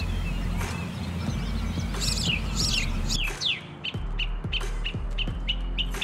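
Small songbirds chirping and singing: a few high chirps about two seconds in, then a series of quick downward-sliding notes followed by short notes repeated about three times a second.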